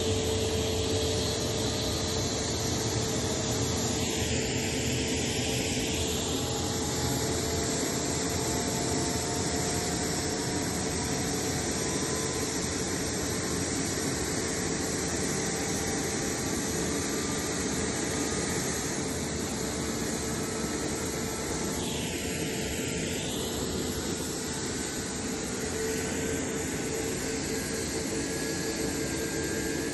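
Jet airliner's turbofan engines, here the MC-21-310's PD-14s, giving a steady roar with a constant hum. The tone of the roar sweeps down and back up twice, as the aircraft moves relative to the listener.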